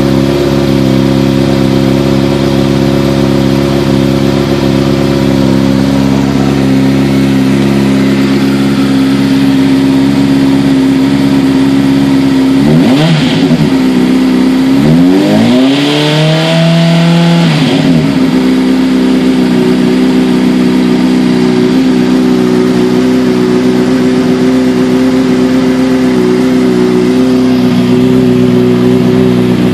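2009 Honda CBR600RR's inline-four engine idling cold through an aftermarket Arrow mid-pipe and muffler, running a little louder while cold. Near the middle the throttle is blipped twice, the second rev longer, each time rising and falling back to a steady idle.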